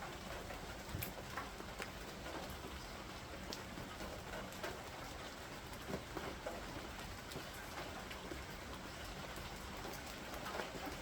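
Steady rain falling during a thunderstorm, with many scattered drops ticking sharply on nearby surfaces.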